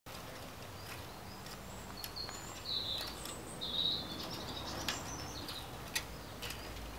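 Small birds chirping and whistling, loudest about three and four seconds in, over steady outdoor background noise. Scattered short scrapes and clicks from a garden rake's metal tines being drawn through crumbly soil.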